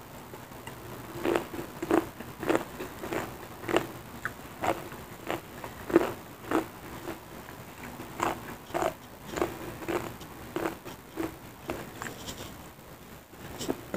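Close-up chewing of crisp cassava chili crackers (kerupuk cabe) eaten with sate, with sharp crunches about two a second starting about a second in.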